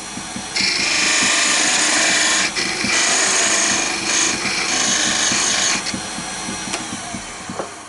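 Turning tool cutting a spinning wooden blank on a wood lathe: a steady hissing scrape in spells with two brief breaks, softer over the last two seconds, as the spindle is cut down to a 20 mm diameter.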